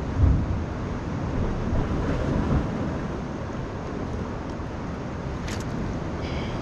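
Wind buffeting the microphone over the wash of sea surf on rocks, a steady rumbling hiss, with a brief click near the end.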